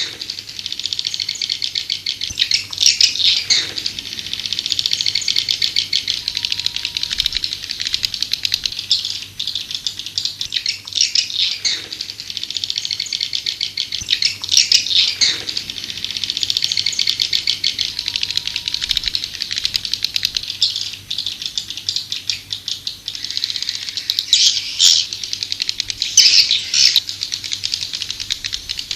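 Swiftlet lure call of white-nest swiftlets: a dense, continuous high-pitched twittering chatter, with louder bursts every few seconds. It is the call sound played in swiftlet houses to draw the birds in to roost and nest.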